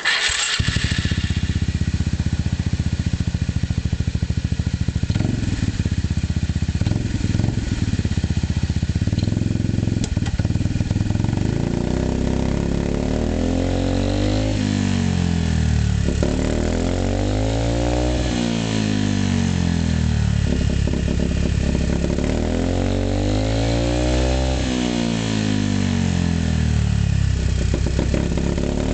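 Yamaha Majesty 250C scooter's single-cylinder four-stroke engine starting right at the opening and settling into a steady idle. From about halfway on it is revved several times, the pitch rising and falling in repeated swells.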